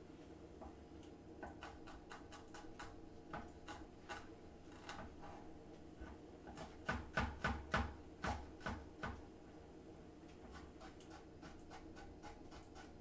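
Kitchen utensils and cookware clicking and knocking, with a quick run of louder knocks and thuds a little past the middle, over a steady low hum.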